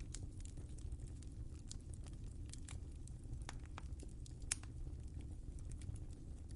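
Wood fire crackling in a fireplace: a steady low rumble of the flames with scattered small snaps and one louder pop about four and a half seconds in.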